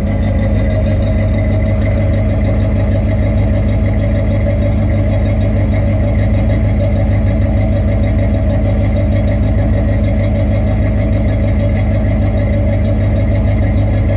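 1982 Chevrolet Corvette's 350 V8, fed by a four-barrel Holley carburetor, idling steadily with an even exhaust pulse.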